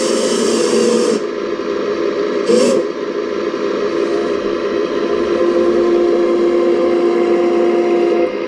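Small electric motors of a radio-controlled model excavator whining steadily, their pitch shifting as functions change, with short bursts of high hiss near the start and about two and a half seconds in.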